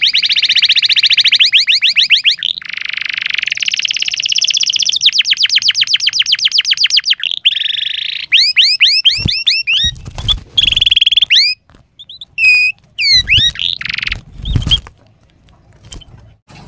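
Domestic canary singing loud, fast trills of rapidly repeated notes, changing from one rolling tour to the next, then breaking into separate chirps and swooping whistles. A few low thumps come in the second half, and the song stops near the end.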